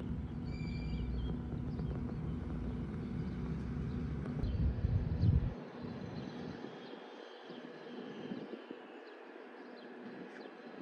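Steady low rumble of a turboprop airliner, swelling briefly about five seconds in, then dropping away sharply to a quieter hiss.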